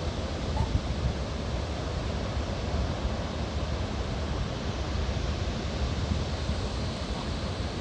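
Steady rushing noise of wind and surf, with a low rumble of wind buffeting the microphone.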